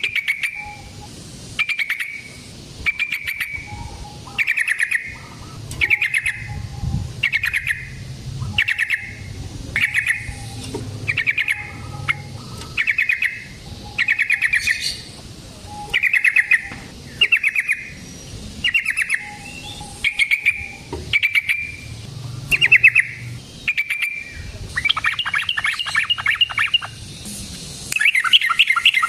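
Yellow-vented bulbul (trucukan) singing short, quick bubbly phrases about once a second. Near the end it breaks into longer, fast chattering runs of notes.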